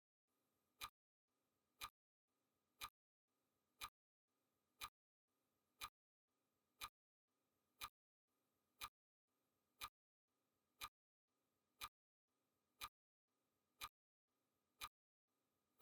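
Faint clock-ticking sound effect, one sharp tick every second, steady and even, counting off the seconds of a countdown timer.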